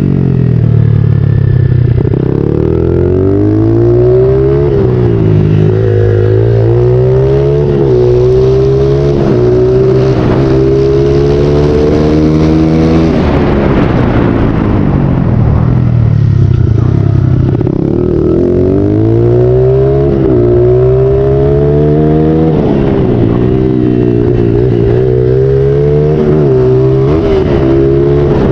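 Honda XR80 pit bike's small single-cylinder four-stroke engine being ridden hard, its pitch climbing and dropping back again and again as it revs up and the throttle is let off.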